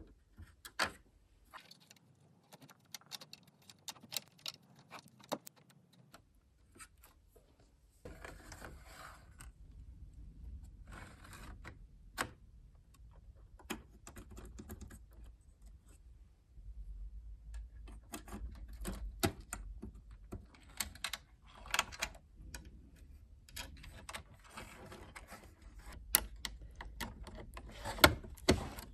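Laptop parts being handled during disassembly or reassembly: irregular clicks, taps and rattles of small plastic and metal pieces, with stretches of scraping and rustling.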